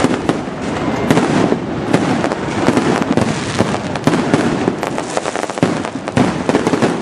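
Fireworks display: aerial shells bursting in a rapid, unbroken barrage of bangs and crackles.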